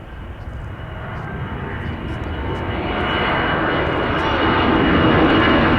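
Jet airliner's engines growing steadily louder as it approaches, a wide rushing noise with a steady high whine from the fans.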